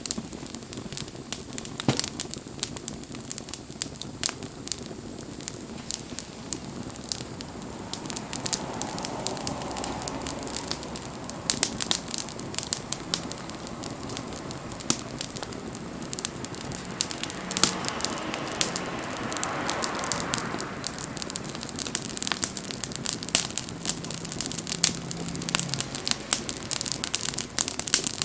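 Wood bonfire crackling and popping steadily with many sharp irregular snaps. A soft hiss swells and fades twice, about a third of the way in and again about two-thirds in.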